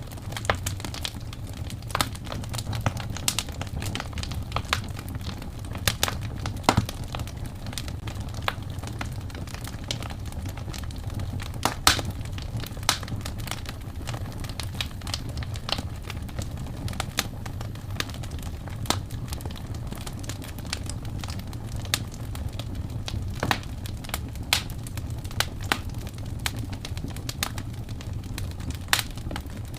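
Wood fire crackling in a fireplace: irregular sharp pops and snaps, one louder pop about twelve seconds in, over a steady low rumble.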